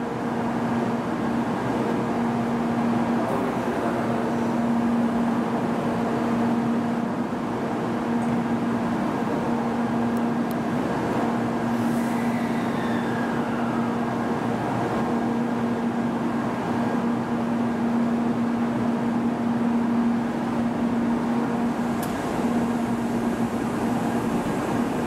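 N700-series Shinkansen train at a station platform: a steady electrical hum and blower noise, with the train starting to pull away and rolling past in the second half.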